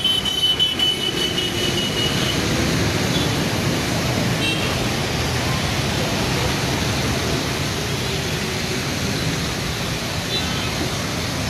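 Steady wash of traffic and water noise on a rain-flooded road, with a thin high tone for about the first two seconds.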